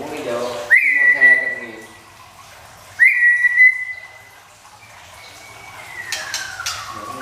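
White-rumped shama (long-tailed murai batu) singing clear whistled notes: two short held whistles that each start with a quick upward flick, then one long whistle that glides slowly downward.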